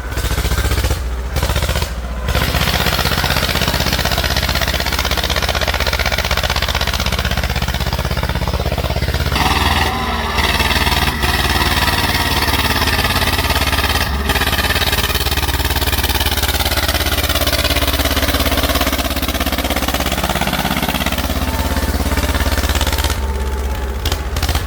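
Tractor engine running hard, its pitch rising and falling as the revs change.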